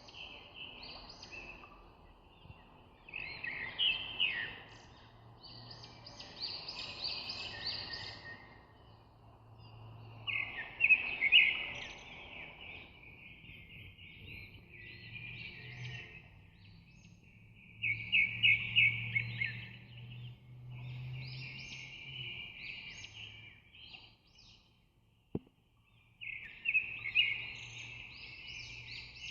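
Small birds chirping in repeated bursts of rapid high notes every few seconds, over a faint low hum.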